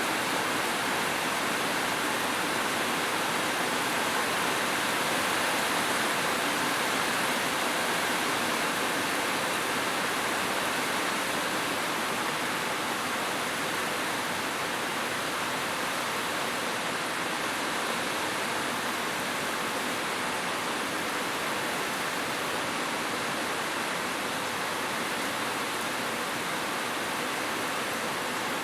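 Heavy rain falling steadily on a roof: an even, unbroken hiss of drops.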